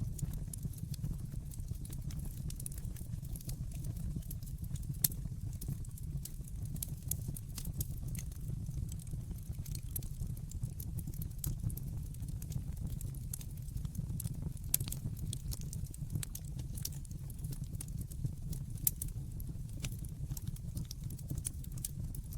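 Wood fire burning in a fireplace: a steady low rumble of flame with frequent small crackles and an occasional louder pop.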